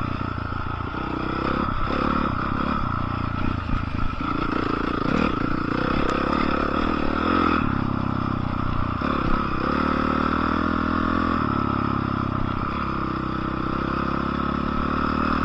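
Dirt bike engine running steadily, its pitch shifting up and down in steps several times as the throttle changes, with some clattering.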